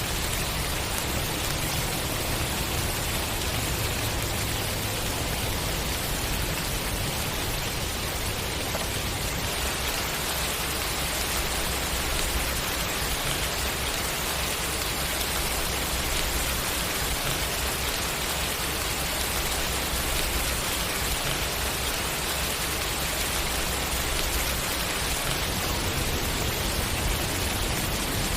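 Steady rain, a dense even hiss of falling drops with no thunder or other events.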